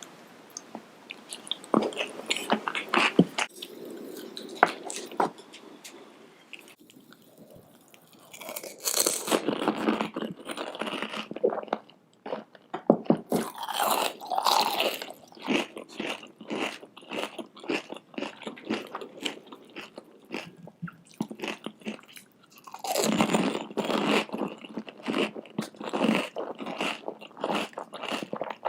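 Close-miked eating: bites and crunching of crisp fried Indian street food, with chewing, in bouts of rapid crackling crunches separated by short pauses.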